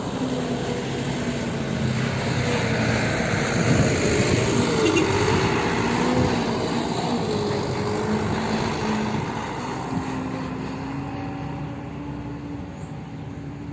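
A vehicle engine running, its pitch shifting. The sound gets louder toward about five seconds in, then slowly fades.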